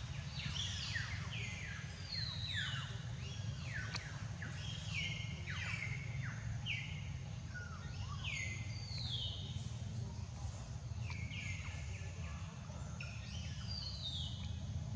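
Birds chirping, many short calls that slide down in pitch, overlapping and repeating throughout, over a steady low rumble.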